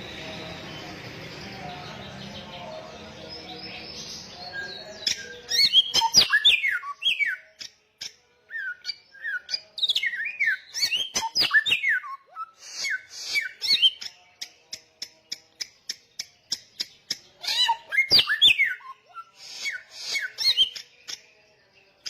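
A samyong songbird singing loudly in bursts of quick, sharply gliding whistled notes mixed with rapid runs of dry ticks, a varied medley-like song. A steady hiss fills the first few seconds before the song begins.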